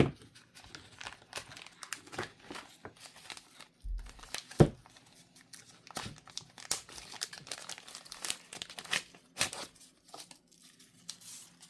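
Knife packaging being opened by hand: irregular crinkling, tearing and rustling of the wrapping, with small clicks and one sharp knock about four and a half seconds in.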